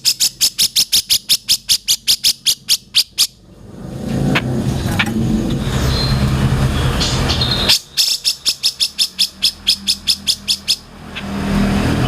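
A songbird calling in two runs of rapid, evenly repeated sharp high notes, about eight a second, each run lasting about three seconds. A steady low rumble fills the gaps between the runs.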